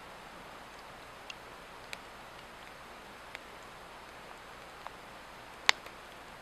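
Swedish torch log fire crackling: scattered sharp pops and ticks from the burning wood, with one much louder snap near the end, over a steady background hiss.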